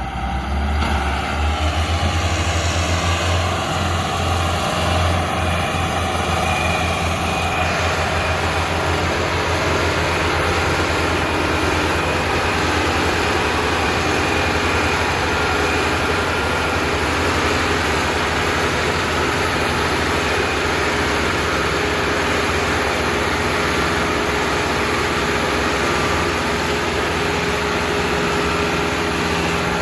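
Engine of a pulling tractor running loud and steady, with a low pulsing beat that is plainest in the first few seconds, under a dense mechanical roar.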